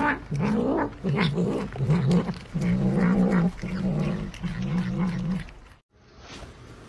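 A domestic cat giving a run of low, wavering yowls, about six in a row, before the sound cuts off suddenly.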